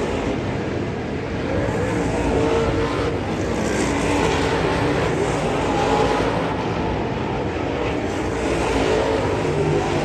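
Dirt late model race cars running laps on a dirt oval, a steady mix of several engines at slightly different pitches.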